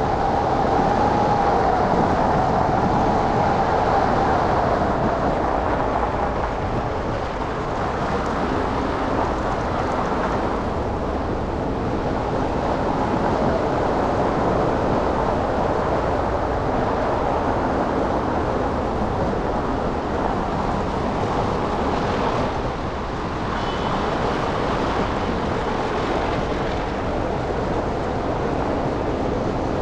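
Steady city street traffic noise from a car driving through town, a dense hum of engines and tyres. A siren's wail fades away in the first few seconds.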